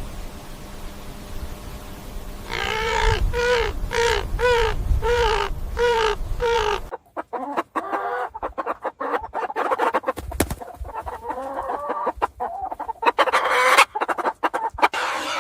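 Chickens clucking: a run of about seven even, repeated calls, then after a cut a busier stretch of quick clucks and calls that grows louder near the end.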